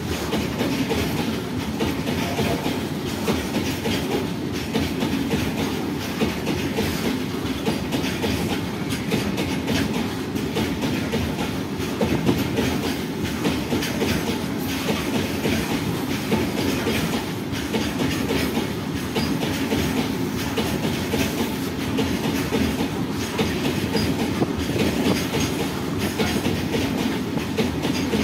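Freight train of covered open wagons rolling past close by: a steady rumble of steel wheels on rail with a dense run of clickety-clack over the rail joints.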